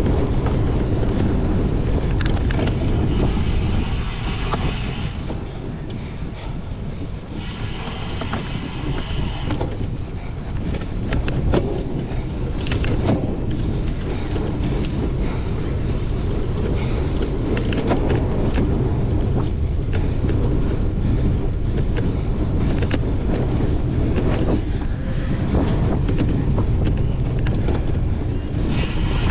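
Cyclocross bike ridden hard over a rough course: steady wind rush on the microphone, with scattered clicks and rattles from the bike and tyres.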